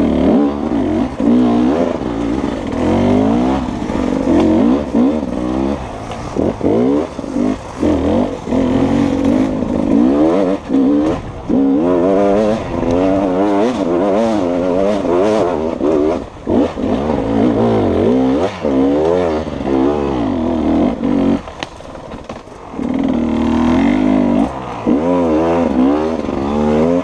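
Beta two-stroke enduro motorcycle engine revving up and down again and again as it is ridden over rough trail and up steep dirt climbs. The revs drop briefly a little over three-quarters of the way through, then rise again.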